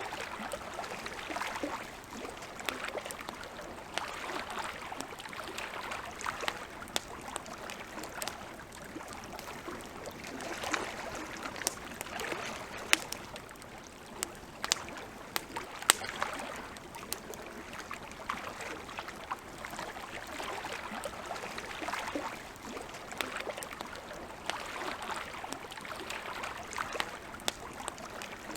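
Campfire crackling with scattered sharp pops, the loudest two about halfway through, over small waves lapping at a lakeshore in slow swells every few seconds.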